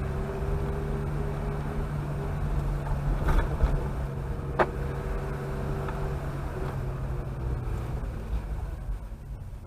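Chevrolet Chevette's engine running with a steady low hum, heard from inside the car. A single sharp click sounds about halfway through, and the engine sound dies down near the end.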